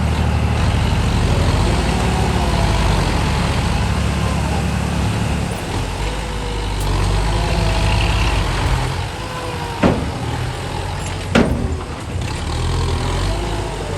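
Dump truck's diesel engine running steadily, its note dropping about five and a half seconds in, with two sharp bangs about a second and a half apart near the end.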